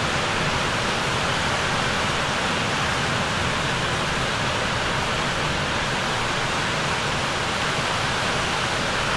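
A steady, even rushing noise with no rise and fall, which cuts off suddenly near the end.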